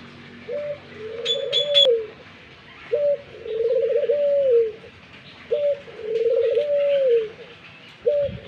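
Fantinet pigeon cooing: three full coos about every two and a half seconds, each a short note followed by a longer rolling coo that drops off at the end, with a fourth starting near the end. Three quick high chirps come about a second in.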